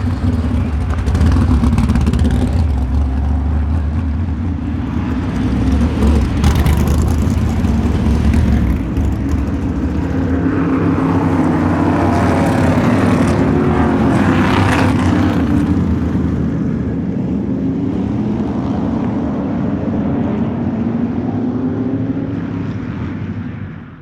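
A motor vehicle, most likely a car, running steadily with a low engine hum and noise, swelling a little midway, then fading out quickly at the end.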